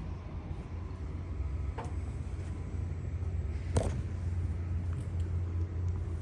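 A steady low rumble, with a faint click about two seconds in and a louder, sharp knock near the middle.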